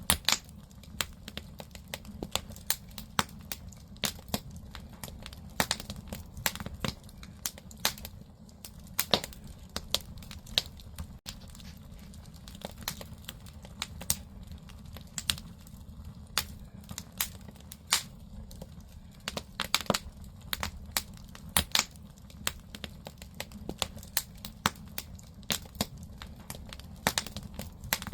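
Firewood burning in a traditional Korean agungi firebox: irregular sharp crackles and pops over a steady low rumble of the fire.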